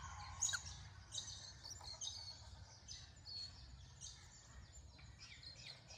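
Birds chirping: many short high notes in quick succession, over a faint, steady low rumble.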